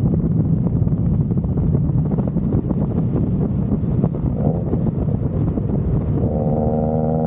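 Exhaust of a 2012 Subaru WRX's EJ255 turbocharged flat-four with the mufflers deleted, running with an uneven, choppy low rumble. About six seconds in, it settles into a steadier drone.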